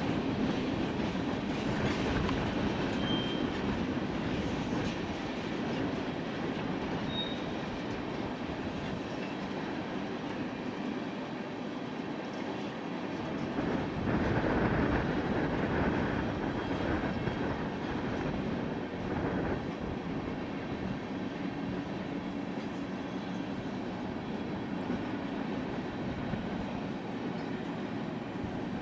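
Freight train cars rolling past: a steady rumble and clatter of wheels on the rails, with a few short, high wheel squeals.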